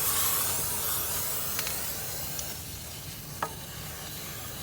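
Lubricant sprayed from an aerosol can onto a new excavator swing-bearing seal: a steady hiss that slowly fades, with a couple of light clicks.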